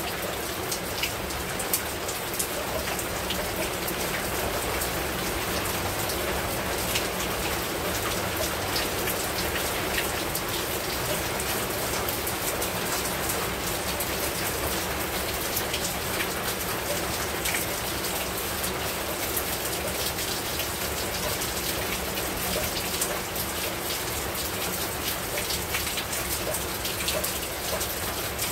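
Heavy rain falling steadily on a rooftop, with many sharp individual drop hits standing out from the even rush.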